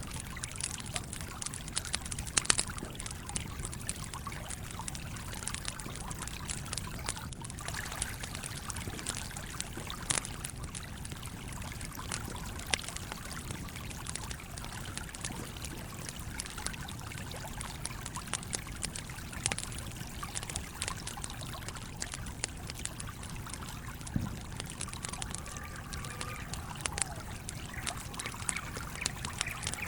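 Campfire crackling with scattered sharp pops, the loudest about two and a half seconds in, over the steady rush of a flowing stream.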